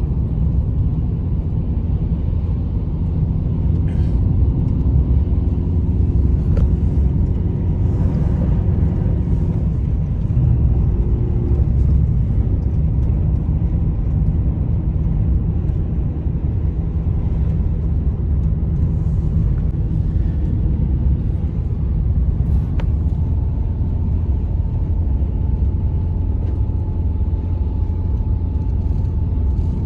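Steady low rumble of strong blizzard wind buffeting the microphone.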